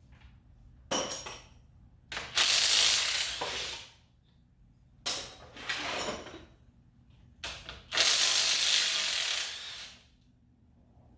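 A power ratchet or similar air tool run in short bursts on the engine's bolts during the teardown, six bursts in all, the two longest about two seconds in and about eight seconds in.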